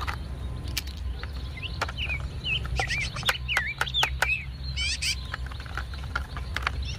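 Birds chirping, short curving calls from about one and a half to four and a half seconds in and once more about a second later. Scattered clicks of a plastic toy dump truck being handled and a steady low background rumble run beneath.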